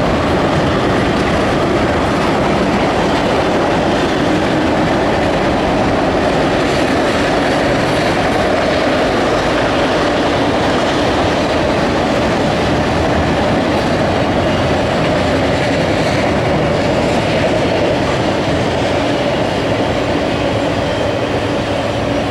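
Autorack freight cars rolling past: steady rumble and rattle of steel wheels on the rails, with a constant hum in the mid range.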